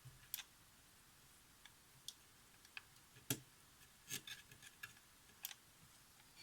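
Scattered small clicks and taps of objects being handled on a workbench, about half a dozen spread irregularly, the sharpest a little past the middle, over near silence.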